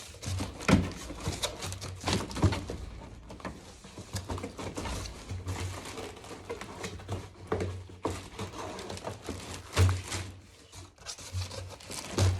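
Cardboard box and packaging being handled: irregular rubbing, crinkling and light knocks, with a louder thump near the end.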